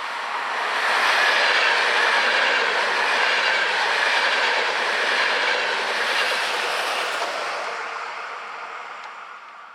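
A train passing on the line, the running noise of its wheels on the rails growing loud within the first second, holding for several seconds, then fading away near the end.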